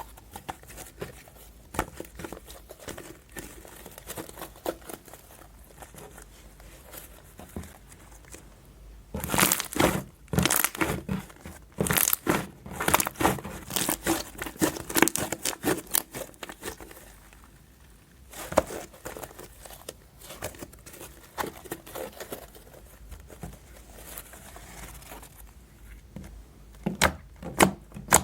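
Fluffy soap slime being squished and stretched by hand, giving sticky crackles, clicks and pops in dense bursts. Near the end there is a quicker run of single sharp pops.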